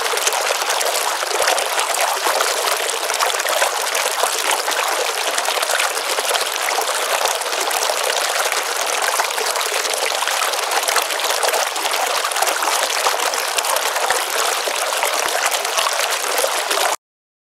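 Steady, loud rush of running water with no distinct events, cutting off abruptly near the end.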